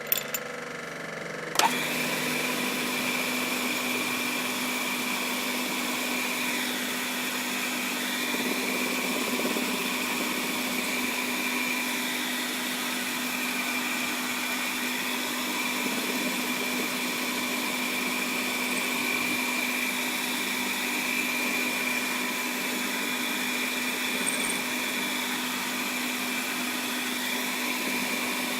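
Small lathe's motor switched on about a second and a half in, then running steadily at constant speed, after a couple of sharp clicks.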